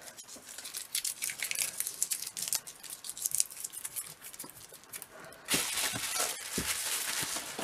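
Bubble wrap and packing tape being pulled off a package of comics by hand, with crinkling, rustling and little crackles. About five and a half seconds in it turns into a louder, denser rasping rustle.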